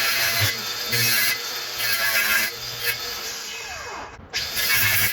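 Saw cutting through a wall panel in short strokes, about one a second, to open up a honeybee colony's cavity.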